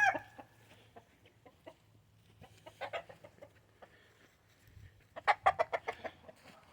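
Gamefowl roosters clucking in short, scattered calls, with a quick run of clucks about five seconds in.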